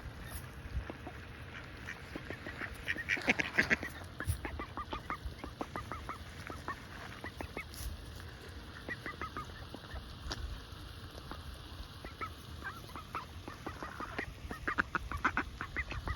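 Ducks calling in short bursts while they feed, among a steady patter of quick clicks from bills pecking at bird food on the ground. The calls are loudest about three seconds in and again near the end.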